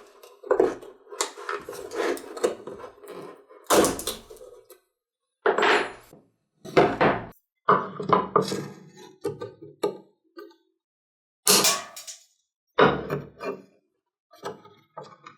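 Hand tools knocking and scraping against wood and metal parts in short, irregular bursts, with brief silent gaps between them, as a part is worked loose.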